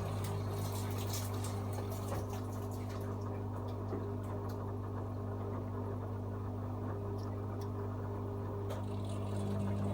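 AEG Öko-Lavamat 74780 washing machine moving water mid-cycle: a steady electrical hum with water rushing and splashing inside the machine, with a few faint ticks and splashes.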